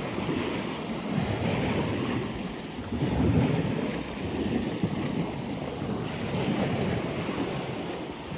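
Wind buffeting the microphone outdoors: a rough low rumble that rises and falls in gusts, strongest about three seconds in.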